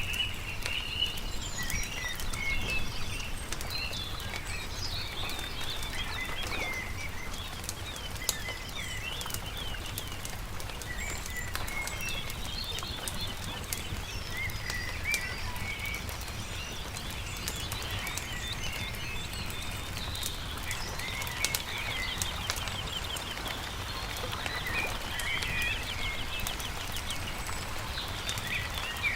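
Songbirds chirping and trilling over the crackle and sharp pops of a campfire, with a steady low rumble underneath.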